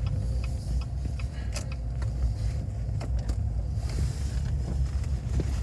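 Car engine running, a steady low rumble with a few faint clicks.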